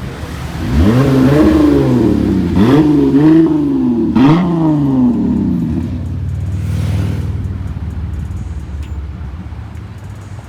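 Car engine being revved in about four quick blips, its pitch rising and falling each time, then dropping back to a lower, steady idle that fades.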